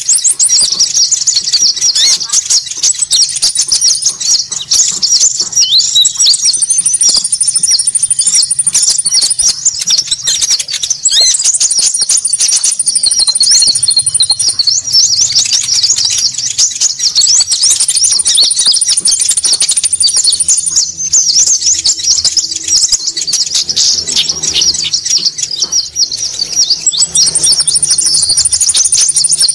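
A loud, dense chorus of small birds known locally as konin, calling over one another: a 'ribut' (noisy) bird-trapping lure recording. A higher, even trill comes in for a second or three at a time, five times, over the constant chatter.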